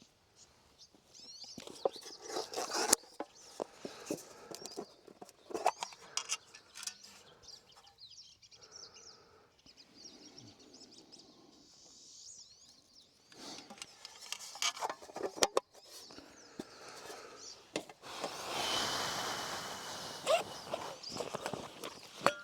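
Irregular clicks, snaps and rustling, with faint bird chirps behind. A louder rush of noise lasts about two seconds near the end.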